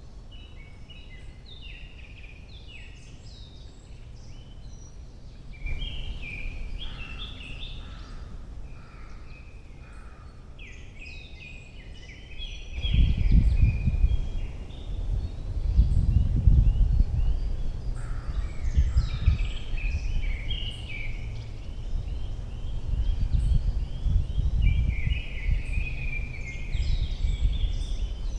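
Several forest songbirds singing in overlapping, varied phrases of chirps and trills. From about halfway through, irregular gusts of wind buffet the microphone in loud low rumbles.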